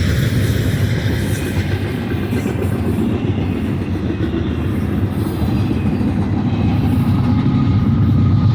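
Double-stack container train's cars rolling past, a steady rumble of wheels on rail with some clickety-clack. Faint thin tones join in over the last few seconds.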